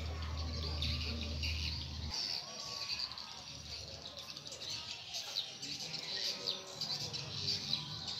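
Small birds chirping in many quick, short, high notes, with a low steady hum underneath that cuts off suddenly about two seconds in.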